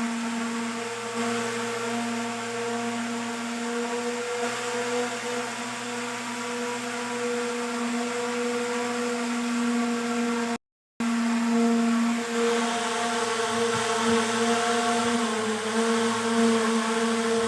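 A small electric motor running steadily with a high, even whine, as on a homemade toy speedboat. The sound cuts out completely for a moment about two-thirds of the way through, then resumes unchanged.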